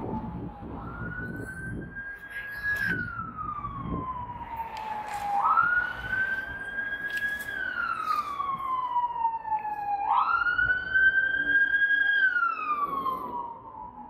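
Emergency vehicle siren in wail mode: a single tone that climbs quickly, holds, then slides slowly down, repeating about every five seconds, three times.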